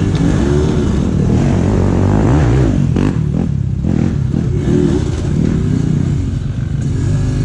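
Hard enduro dirt bike engine revving up and down again and again, the pitch rising and falling in short surges as the rider works the throttle on a difficult obstacle.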